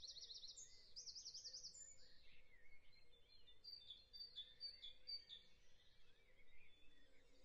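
Faint birdsong: a rapid warbling trill in the first two seconds, then a run of short repeated chirps.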